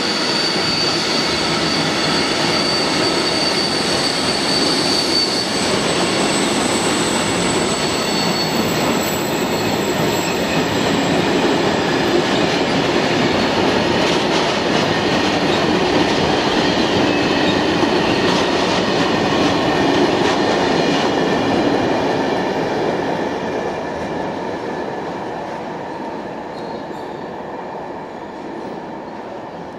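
Freight train of covered wagons rolling past: steady rumble of wagon wheels on the rails, with a high wheel squeal strongest in the first few seconds. The sound fades away over the last several seconds as the end of the train passes.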